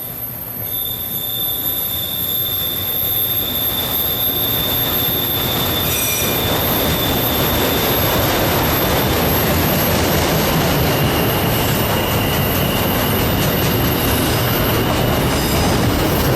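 Freight train rolling past, its steel wheels squealing on the rails in a high, steady tone. The rolling noise of the cars grows louder about six seconds in.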